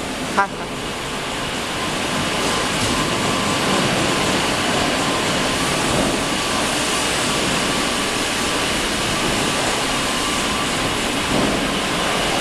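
Steady rolling, running noise with a faint constant whine, typical of a furnace's motor-driven bogie car travelling along its rails.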